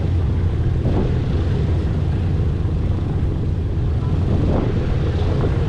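Wright R-1820 Cyclone radial engines of a B-17 Flying Fortress running with a loud, steady, low drone.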